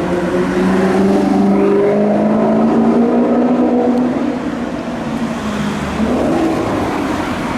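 Maserati GranTurismo's V8 engine running, its note easing gradually lower, then rising again about six seconds in as the engine picks up revs.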